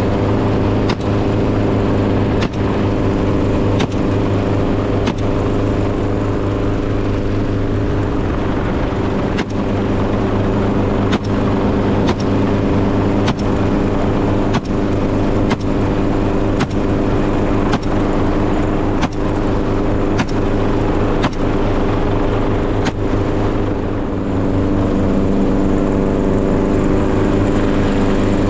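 A motor vehicle's engine running steadily, with a sharp click about once a second.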